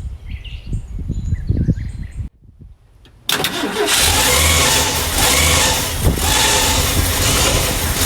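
A few low knocks, then, after a brief gap, the Ford 300 inline-six engine running loudly and steadily, with one sharp pop about six seconds in. The engine will not idle after its rebuild, and it is being checked for a vacuum leak at the carburettor base.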